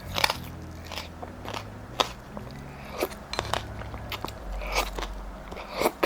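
Close-miked eating of ramen: a string of sharp wet mouth clicks, bites and chewing, with a few longer slurping smears.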